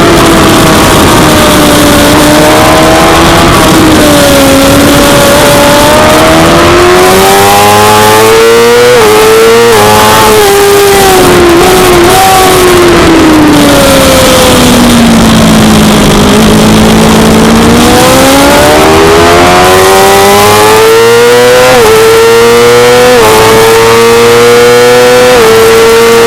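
Suzuki GSX-R600's inline-four engine revving hard, its pitch climbing and dropping sharply at each upshift. Midway it falls away into a long low stretch as the bike slows, then climbs again through several quick upshifts.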